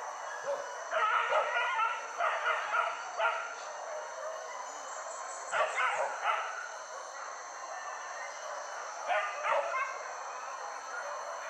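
Hunting dogs barking in three quick bursts of rapid barks, the first and longest near the start, another about halfway, and a short one near the end.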